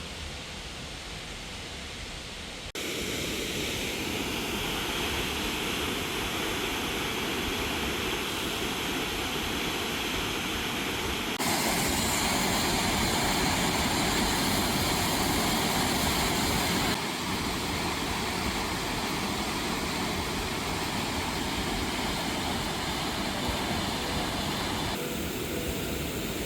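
Steady rushing of a waterfall, with no pitch or rhythm, that jumps abruptly in loudness and tone several times.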